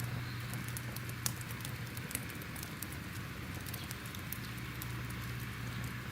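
Crackling fire: irregular sharp pops and crackles over a steady low rumble.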